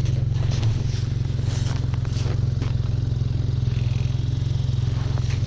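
Four-stroke snowmobile engine of an Arctic Cat Norseman 3000 running steadily at low speed, with scattered short scrapes and crackles over the engine.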